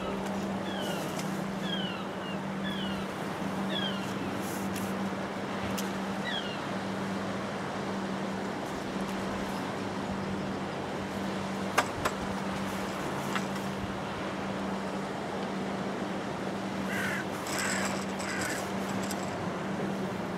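A bird calling over steady wind and sea noise: a short falling note repeated about once a second for the first six seconds or so. A sharp click comes near the middle, and a few quick chirps come near the end.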